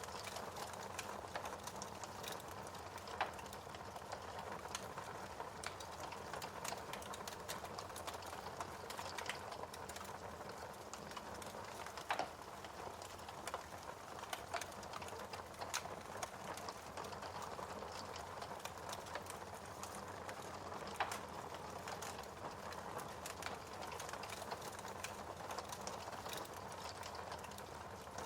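Wood fire crackling in a fireplace: a steady soft hiss with constant irregular small crackles and a few sharper pops.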